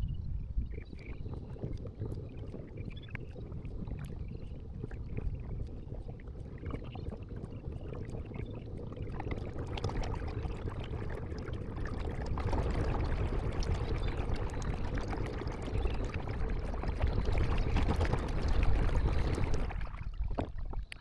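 Water splashing and gurgling around a kayak on a river, with many small splashes and drips, growing louder about halfway through.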